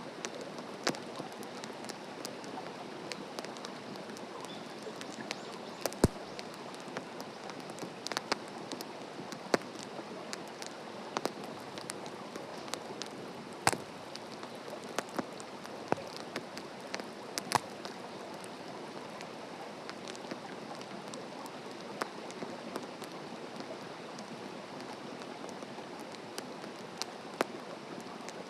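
Wood campfire crackling: a steady hiss with irregular sharp pops and snaps, a few of them much louder than the rest.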